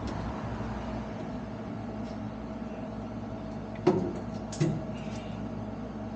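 Two sharp knocks about four seconds in, a moment apart, followed by a few faint ticks, over a steady background hum.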